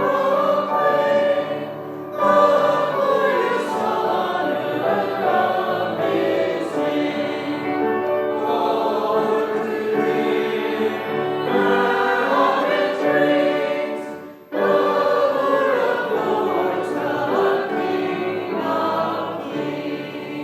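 Church congregation singing a hymn, with short breaths between lines about two seconds in and again about fourteen seconds in. The singing grows softer near the end.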